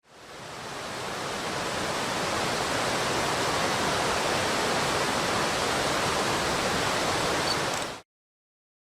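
Mountain stream rushing over rapids: a steady rush of water that fades in over the first two seconds and cuts off abruptly about eight seconds in.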